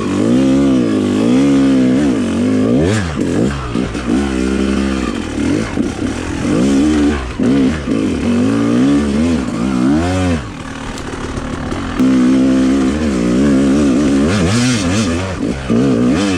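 Dirt bike engine revving up and down over and over under the throttle, with a short, quieter stretch of steadier running about two thirds of the way in.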